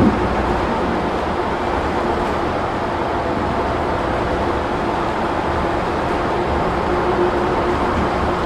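Steady engine and road noise inside a moving city bus.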